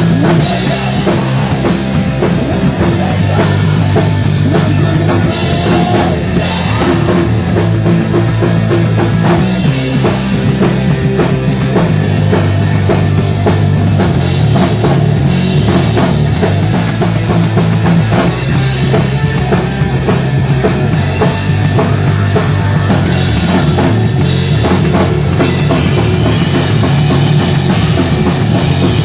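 Live thrash/hard-rock band playing at full volume: distorted electric guitars, bass and a pounding drum kit, recorded loud through an on-site camera microphone.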